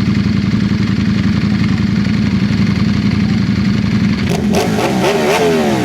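Sport motorcycle engine running at low, steady revs, then from about four seconds in the revs rise and fall quickly several times in a row.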